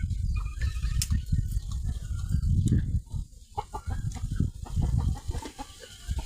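Chickens clucking in short calls over a loud low rumble, with a few sharp ticks.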